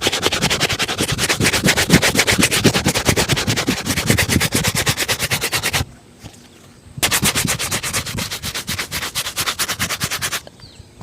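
A shoe being buffed with rapid back-and-forth strokes, about nine a second, in two long runs with a short pause after about six seconds.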